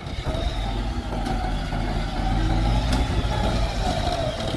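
Kubota tractor's diesel engine running steadily under work, growing a little louder about two seconds in.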